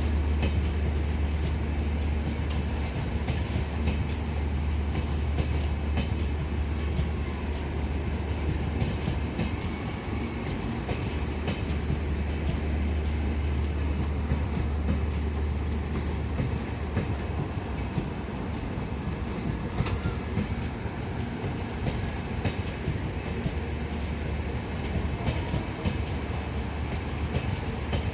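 Passenger express train running on the track, its coach wheels clacking irregularly over the rail joints, over a steady low hum.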